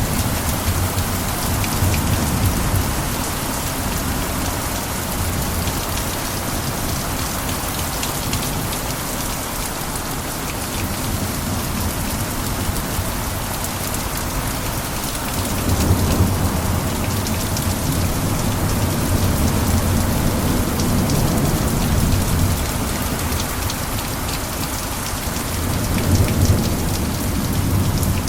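Heavy rain falling steadily. Low rumbles swell up about halfway through and again briefly near the end.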